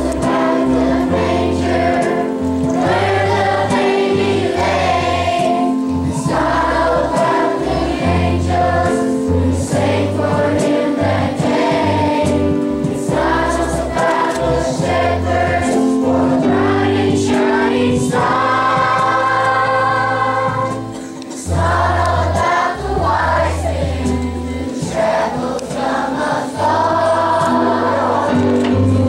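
Choir singing with instrumental accompaniment and a steady bass line.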